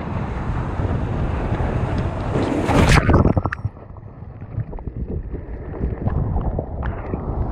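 Strong wind buffeting the microphone over shorebreak surf, with a loud rush of water peaking about three seconds in. After that it drops to a lower, rumbling wind noise.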